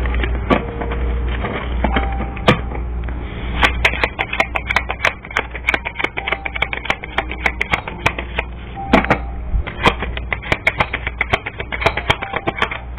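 A tarot deck being shuffled by hand: a long run of quick, irregular clicks and snaps of the cards, starting a few seconds in and stopping just before the end, over a steady low hum.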